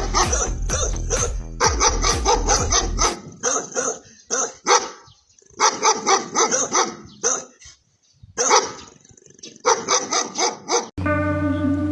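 A dog barking repeatedly, in quick runs of barks with short pauses between them.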